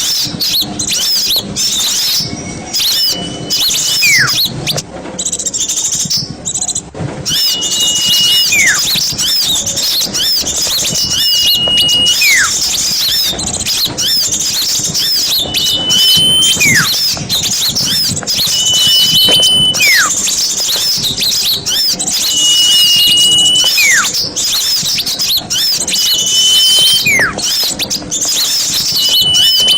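Bird-lure (pikat) recording of many small birds chattering: a dense, continuous mass of quick high chirps. Over it, about every four seconds, a whistled call repeats, a short held note followed by a quick falling slide. The chatter thins for a moment about five seconds in.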